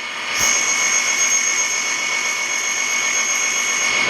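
Freight cars rolling past, with a steady high-pitched whine over an even hiss.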